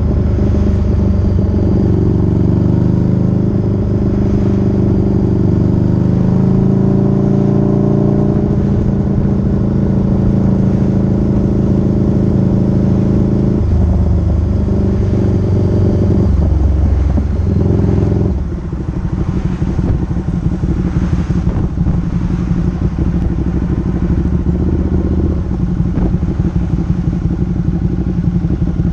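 Motorcycle engine running while riding, a steady pitched note with small shifts. About eighteen seconds in the note drops and the engine settles to a lower, rougher, clattering running.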